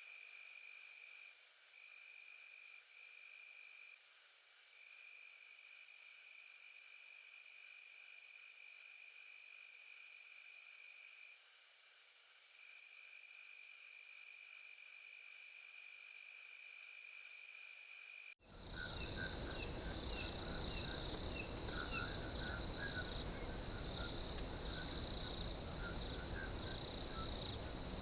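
Crickets trilling in a steady chorus, one high trill over a lower one that breaks off now and then. About two-thirds of the way through it cuts suddenly to another field recording: a slightly lower insect trill with short chirps and a low rumble underneath.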